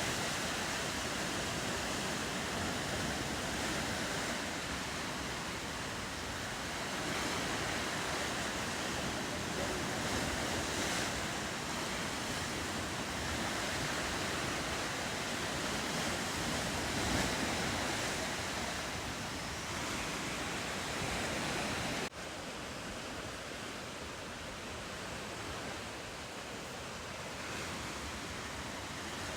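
Ocean surf, a steady rush of waves washing along the coast, which drops a little in level suddenly about 22 seconds in.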